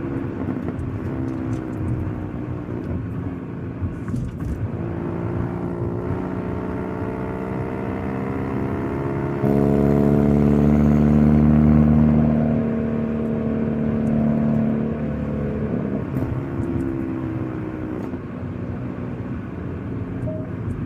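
Hyundai Elantra N's turbocharged four-cylinder engine and exhaust under way in N mode, its pitch rising and falling as the car accelerates and shifts. About ten seconds in it turns suddenly louder and holds a steady drone for a couple of seconds before easing back.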